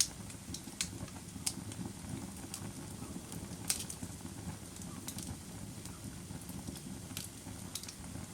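Wood campfire burning: sharp crackling pops at irregular moments, roughly one a second, over a steady low rumble of the flames.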